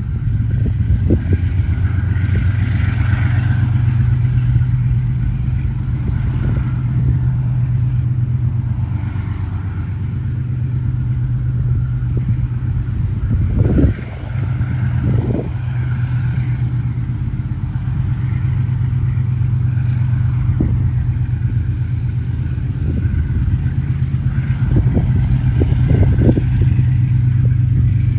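Two P class diesel-electric locomotives working under load as they pull a part-loaded grain train away, their engines giving a steady, loud drone. A few sharp clanks and knocks sound now and then, near the middle and towards the end.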